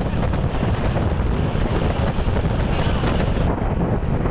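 Wind buffeting the microphone over a steady low rumble of moving traffic and engines.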